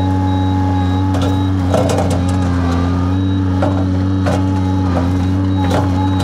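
Skid steer's diesel engine running steadily under load, with irregular clanks and knocks from the bucket and machine as it spreads dirt.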